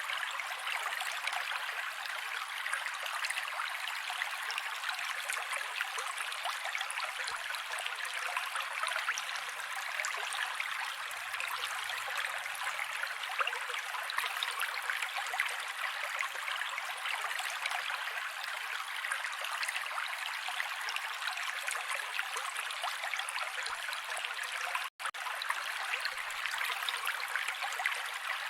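Mountain creek water rushing and babbling steadily over rocks, with a split-second dropout about 25 seconds in.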